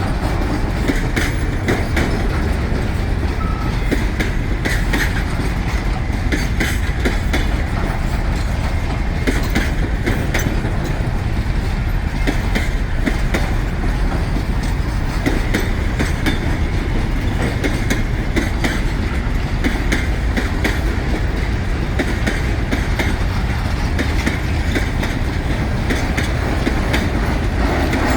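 Freight train cars rolling past steadily, a continuous rumble of wheels on rail with frequent clicking and clanking from the wheels and couplings.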